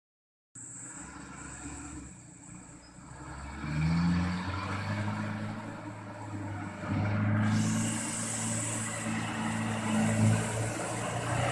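Truck engine running, revving up briefly about four seconds in and running louder again from about seven seconds on.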